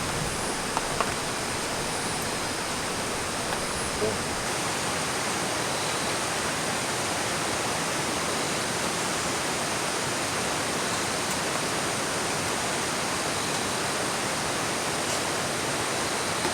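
Mountain stream rushing steadily, an even unbroken wash of water, with a couple of faint knocks in the first few seconds.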